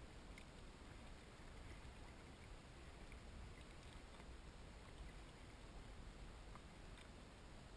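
Near silence: a faint, steady background hiss with a few tiny faint ticks.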